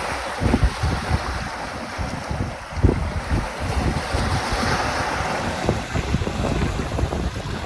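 Caspian Sea waves washing onto the shore, with a surge of surf about four to five seconds in, while gusts of wind buffet the microphone in low, uneven rumbles.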